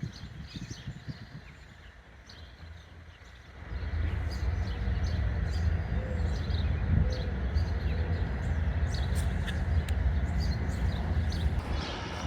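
Birds chirping in short, scattered calls. About four seconds in, a steady low rumble comes in and stays, louder than the birds.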